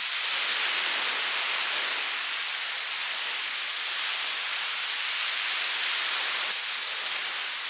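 Steady rushing noise, even and without any tone.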